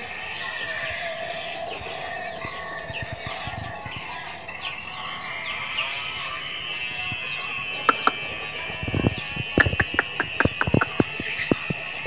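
Outdoor village birdsong: many short chirps and calls, with a steady high-pitched buzz setting in about halfway through. A quick run of sharp clicks or knocks comes near the end.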